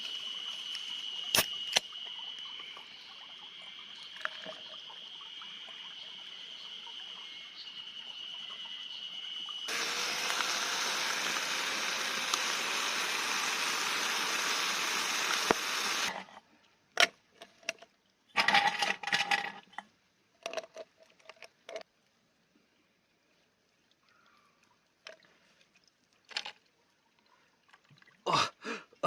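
A steady high whine over faint water, then a mountain stream flowing close and loud for about six seconds, which cuts off suddenly. After that, scattered clicks and knocks in near quiet.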